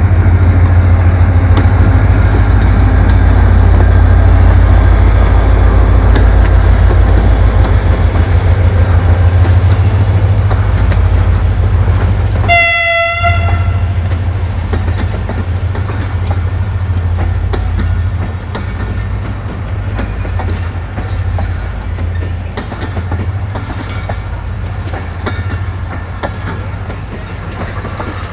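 Passenger train departing behind a Pakistan Railways HGMU-class diesel-electric locomotive: heavy low rumble of the train rolling past with wheels clattering over the rails, slowly fading over the last ten seconds. A short horn toot sounds about halfway through.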